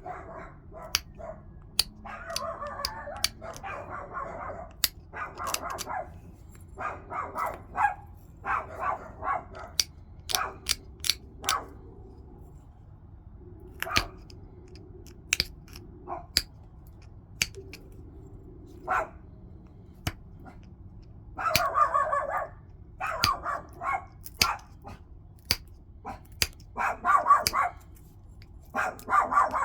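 Flintknapping on a stone point: sharp clicks as small flakes snap off the edge, between short gritty scraping strokes of edge preparation, in clusters.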